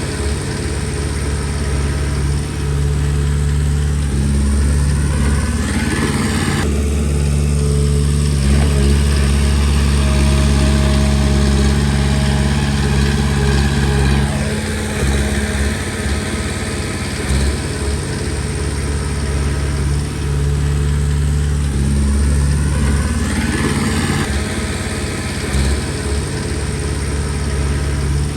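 Komatsu D20P bulldozer's diesel engine running under working load, its note rising and falling as the machine works; it runs heavier from about seven to fourteen seconds in and again near the end.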